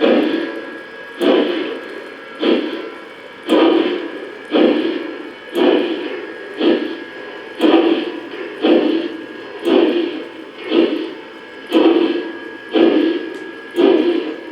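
Electronic steam sound from a Lionel 2-8-8-2 model steam locomotive's onboard speaker: an even, slow chuffing, about one chuff a second, each starting sharply and fading, over a thin steady tone.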